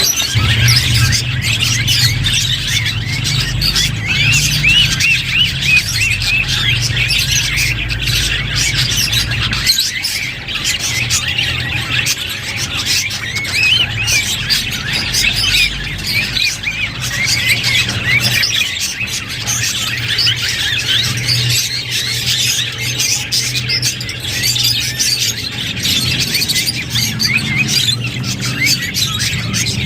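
Budgerigars chattering and warbling, a dense run of overlapping quick chirps with no break. A low hum runs underneath, strongest in the first ten seconds.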